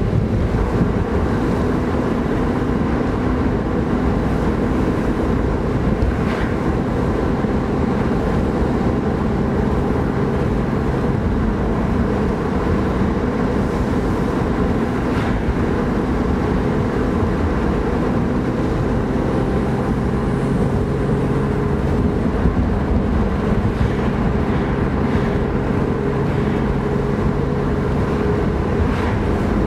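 BMW E36 M3's straight-six engine running at a steady cruise, heard from inside the cabin together with tyre and road noise. The engine note holds a nearly level pitch, shifting only slightly now and then, with a few faint clicks from the road.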